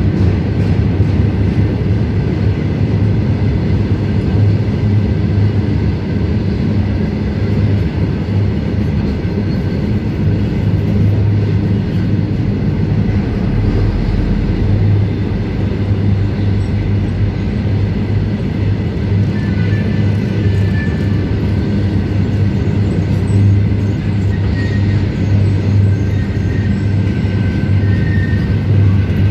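Open freight wagons of a goods train rolling past at speed: a loud, steady, heavy rumble of steel wheels on rail.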